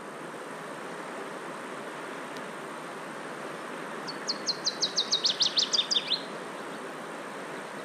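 A songbird sings one short trill of about a dozen quick, high, down-slurred notes, coming faster and dropping lower toward the end, over a steady background hiss.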